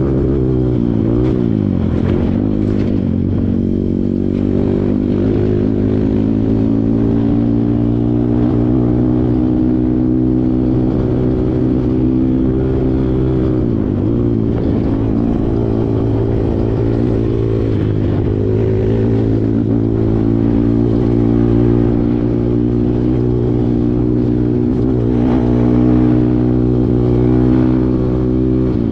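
Kawasaki KLX140 trail bike's single-cylinder four-stroke engine running steadily under way, its pitch dipping and climbing back three or four times as the throttle is eased and opened again.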